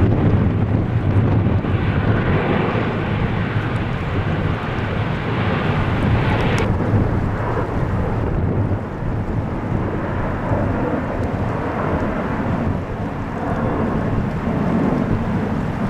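Jet airliner's engines running at takeoff power: a deep, steady rumble, with wind buffeting the microphone.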